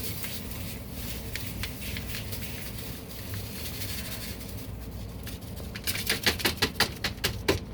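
Light rustling and crackling as a washing-machine cleaner packet is emptied into the washer tub, ending in a quick run of about a dozen sharp taps.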